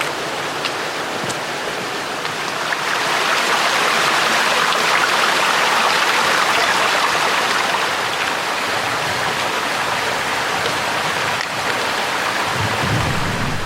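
Rushing water of a stream, a steady hiss that grows louder about three seconds in.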